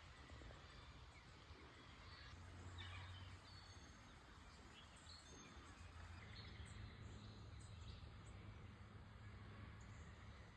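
Near silence: faint bushland ambience with a low steady rumble and a few faint, high bird chirps scattered through it.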